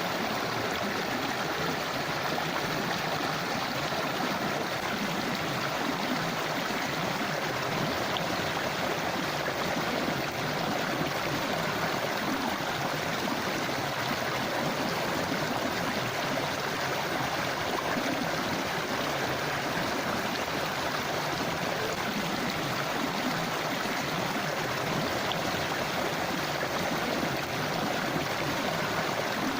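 Forest river flowing over rocks: a steady rush and babble of running water, even throughout.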